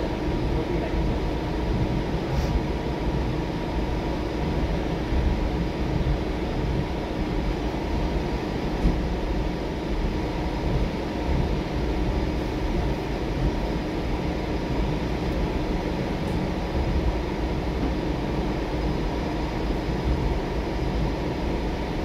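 Steady rumble of a moving passenger train heard from inside the coach, with a constant hum running through it.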